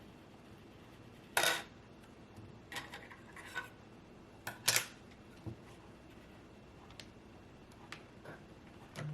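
Scattered clicks and light knocks of computer parts and packaging being handled, irregular and a second or two apart, the loudest about a second and a half in and again near five seconds.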